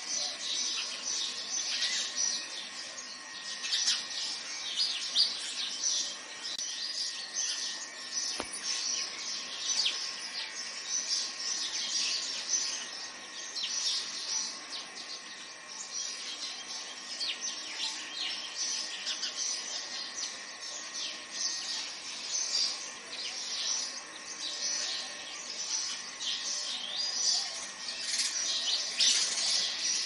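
Birds chirping in a dense, continuous run of quick, high, short notes.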